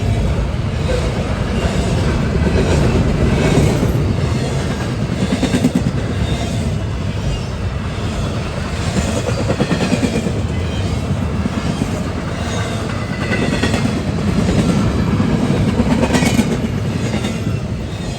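A freight train of CSX autorack cars rolling past, its wheels clacking steadily over the rail joints, with an occasional faint high squeal.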